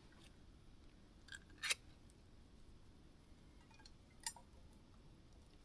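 Quiet, with three short sharp clicks from handling camp cooking gear: one about a second and a half in, another just after it, and a third past four seconds in.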